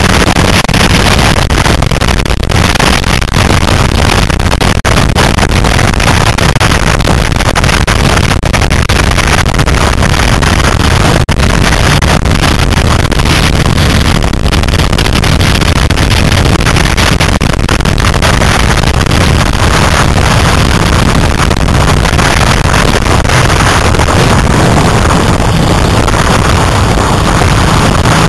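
Austin 7 Ulster's four-cylinder side-valve engine running steadily under way in the open car, loud, with wind buffeting the microphone.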